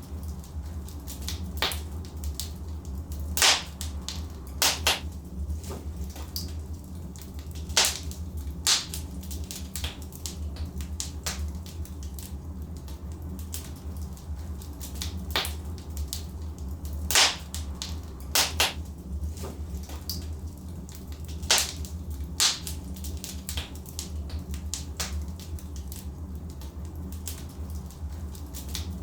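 Wood fire burning logs in a fireplace, crackling with irregular sharp pops over a steady low rumble of the flames.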